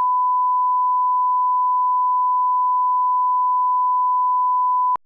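A steady 1 kHz reference test tone, one pure unchanging pitch, that cuts off suddenly with a click about five seconds in.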